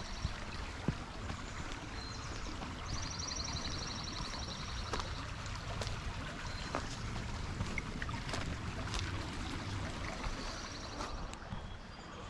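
Steady rush of flowing creek water. A high, rapid trill repeats through the first half, and scattered light clicks sound over the water.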